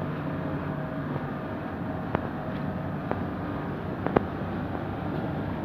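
ÖBB Railjet train with its electric locomotive rolling past the platform: a steady rumble with a faint motor hum, and a few sharp clicks about two, three and four seconds in.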